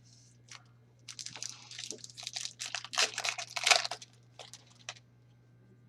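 Trading card pack wrapper crinkling and tearing as a pack is opened: a run of crackling that starts about a second in and lasts about three seconds.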